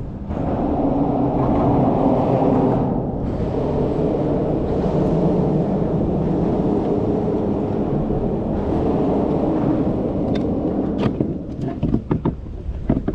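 A steady, loud low rumble of noise on the microphone, with a few sharp clicks near the end.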